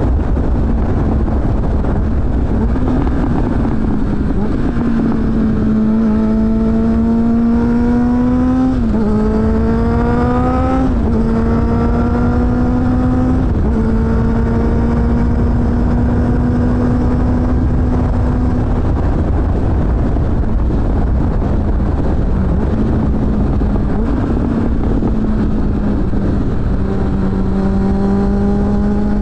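Suzuki GSF600 Bandit's inline-four engine through a BOS aftermarket exhaust, heard on board while riding, over a heavy low rumble. The engine note climbs under acceleration, drops sharply twice in quick succession around the middle as the rider upshifts, holds fairly steady, and climbs again near the end.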